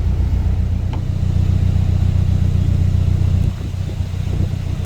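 Narrowboat engine running with a steady low chugging pulse, dropping quieter about three and a half seconds in.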